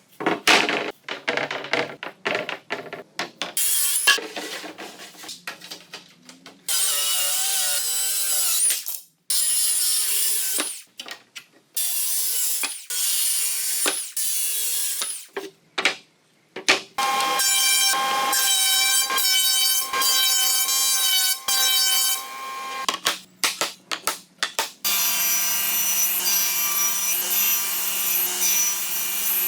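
A run of woodworking sounds on cherry wood. It opens with quick, repeated strokes of tools working the wood, then moves into stretches of steady sawing and rubbing. Near the end, power tools run with a steady whine.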